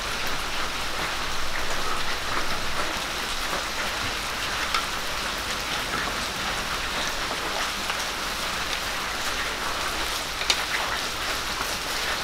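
Sliced onions, ginger-garlic and green chillies sizzling in oil in a clay pan, a steady hiss with small scattered crackles, as a wooden spatula stirs them.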